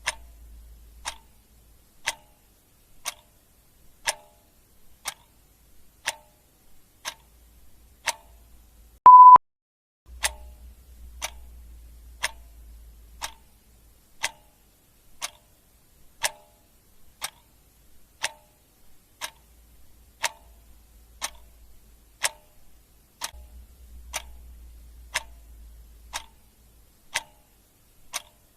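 Clock ticking steadily, about one tick a second. About nine seconds in, a short, loud, high beep sounds once.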